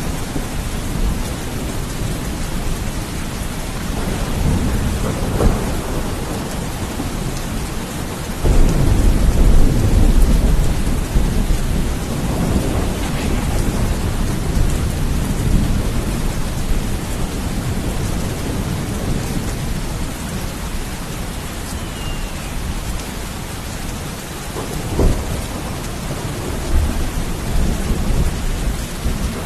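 Steady rain with rolling thunder. A loud, deep rumble of thunder breaks in about eight seconds in and rolls on for several seconds, with shorter sharp cracks a few seconds before it and again near the end.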